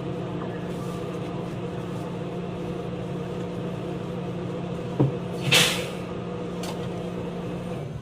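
Inside a stationary JR West 223 series electric train car: a steady hum from the onboard equipment, with a click about five seconds in followed by a short hiss of released air. The low part of the hum stops near the end.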